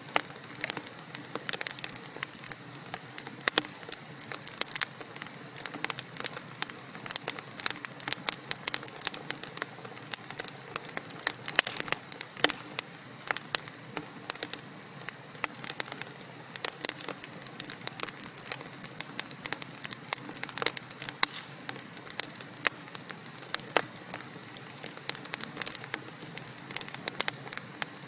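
Wood fire of burning logs in a fireplace crackling: many sharp irregular pops and snaps over a soft steady hiss.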